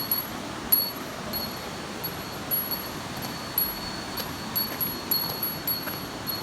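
Steady rushing of a waterfall, with a thin high ringing that comes and goes and frequent small light ticks over it.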